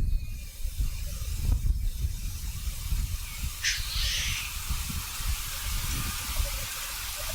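Male black grouse displaying at a lek: one loud hissing 'sneeze' call about halfway through, over faint bubbling cooing that comes through more in the second half. A steady low rumble of wind on the microphone runs underneath.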